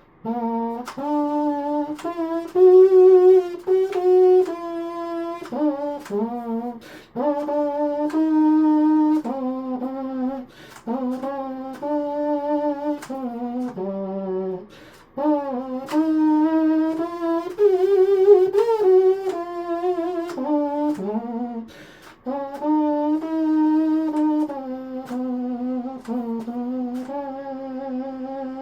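3D-printed pocket-style trumpet with rectangular valves playing a simple melody, a string of held notes with some wavering in pitch and a couple of mistakes along the way.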